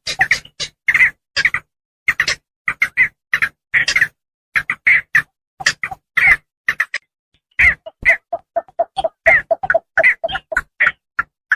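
Javan pond herons giving rapid series of short, harsh croaking calls, several a second, used as a lure call for trapping. A short pause a little past the middle is followed by a quicker run of shorter, lower notes.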